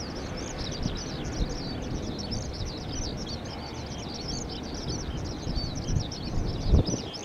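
A bird singing a long, unbroken stream of rapid high chirps and warbles over a low wind rumble, with a few low bumps near the end.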